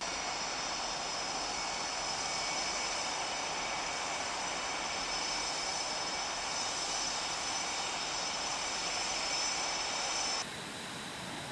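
Jet engine running steadily on the ground: a loud rushing noise with a thin high-pitched whine. It drops abruptly to a lower level near the end, and the whine fades.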